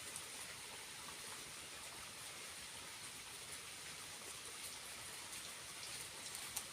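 Water of a small waterfall falling and splashing, a steady, faint hiss with a few light ticks of drops.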